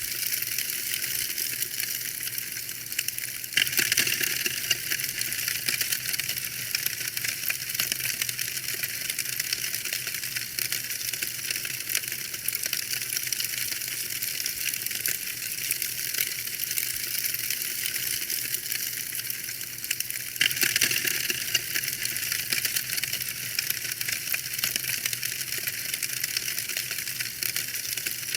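Wood fire in a fireplace crackling: a steady hiss full of small, irregular pops and snaps. The crackle grows louder about 4 s in and again about 20 s in.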